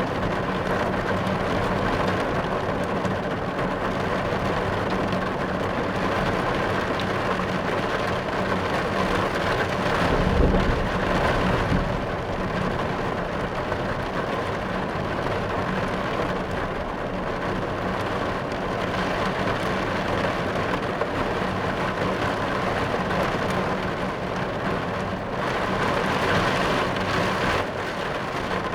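Rain falling steadily on a car's roof and windows, heard from inside the car. A short low rumble of thunder comes about ten seconds in.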